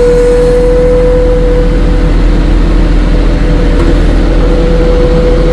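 Vehicle engine running at a steady speed close to the microphone, with a constant whine over it.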